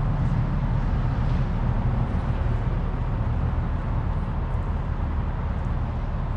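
Hino 268A medium-duty truck's diesel engine running steadily, a low even hum.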